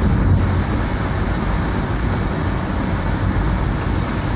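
Steady road and tyre noise inside a moving car's cabin on rain-soaked pavement, with the rain on the car blended in. A faint tick comes about two seconds in and another near the end.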